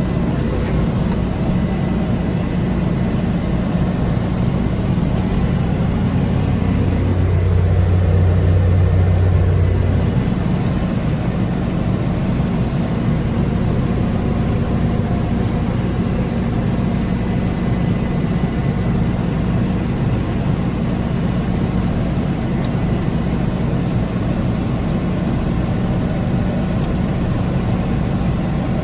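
Big Valtra tractor's diesel engine running steadily under load while driving a flail mower. About a quarter of the way in, a deeper hum grows louder for a few seconds, then settles back.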